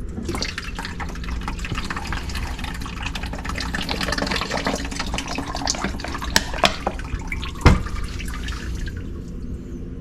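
Wet vac sucking water and sludge out of a cut-open, badly clogged drain line and P-trap: a steady, crackly slurping gurgle that dies away about a second before the end. A sharp knock sounds near the end.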